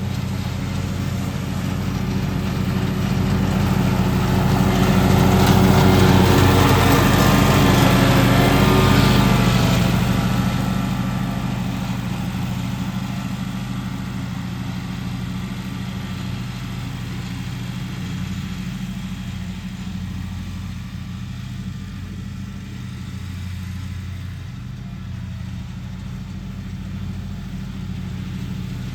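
Lawn mower engine running steadily. It swells louder for several seconds about a third of the way in, then eases back to an even drone.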